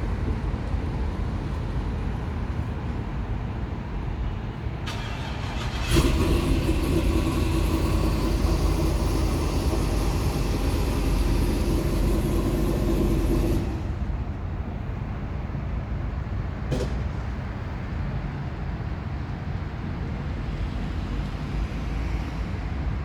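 Steady low rumble of motor traffic. A louder engine hum comes in about six seconds in and stops abruptly about eight seconds later. There is a single click near the end.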